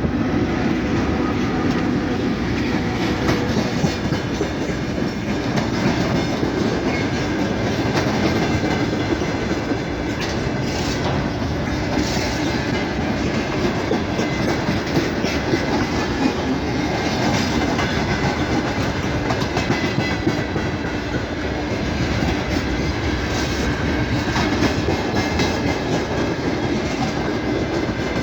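A train rolling past, its wheels clattering over the rail joints with a steady, continuous rumble.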